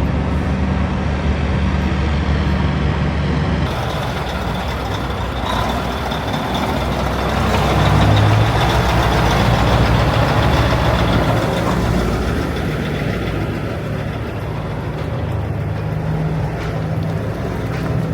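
Truck engine running, speeding up about eight seconds in and easing back down a few seconds later.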